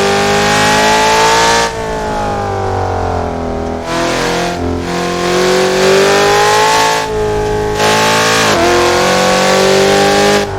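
Car engine heard on board at speed, pulling hard with its pitch climbing, then dropping sharply several times as it shifts gears, over a steady rush of tyre and road noise on a wet track.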